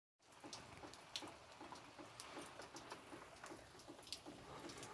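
Light rain, faint, pattering and dripping with scattered sharp drops, over a soft low pulse repeating about twice a second.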